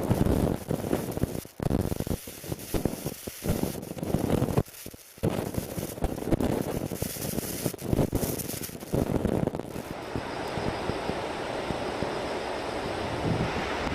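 Typhoon wind buffeting the microphone in ragged gusts with sudden dropouts. About ten seconds in this gives way to a steady, even rush of swollen floodwater.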